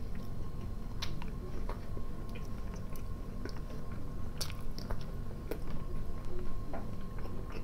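A person chewing mouthfuls of dry sausage and cheese close to the microphone, with scattered small mouth clicks.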